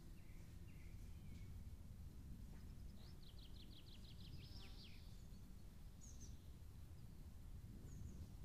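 Faint birdsong over a low, steady outdoor rumble: a few short chirps in the first second or so, a rapid trill of quick repeated notes lasting about two seconds from around three seconds in, and a couple of brief high calls later on.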